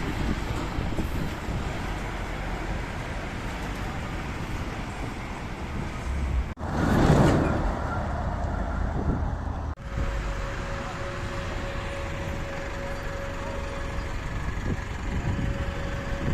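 Road traffic passing in a city street: steady engine and tyre noise, with one louder swell about seven seconds in and a faint steady hum from about ten seconds in.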